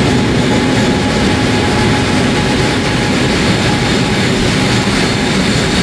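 KTX high-speed train running past on the station track: a loud, steady rush of wheel and air noise.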